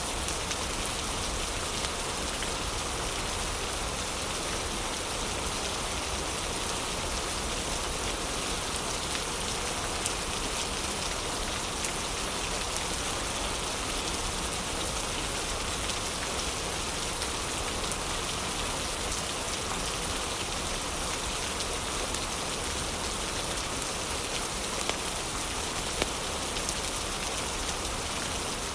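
Steady heavy rain, with a few short, sharp crackles from a fireplace fire.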